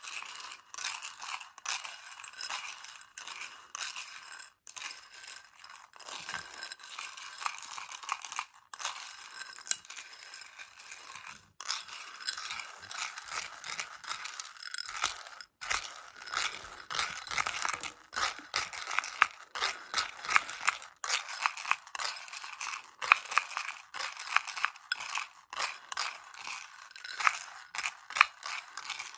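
Close-up ASMR tapping and scratching on a plastic container of Choco Baby chocolate candies: a dense run of quick, crisp, irregular clicks and scrapes, busier and louder in the second half.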